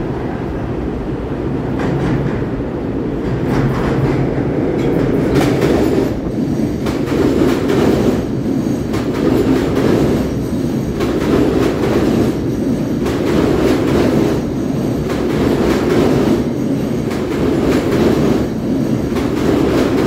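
LIRR M7 electric multiple-unit train passing through the station without stopping, its wheels clacking over the rail joints in a steady repeating rhythm as car after car goes by. The sound builds over the first few seconds as the train draws near, then stays loud.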